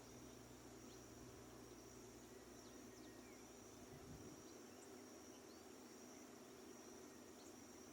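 Faint rural ambience: a steady high-pitched insect drone, with scattered faint, short bird chirps.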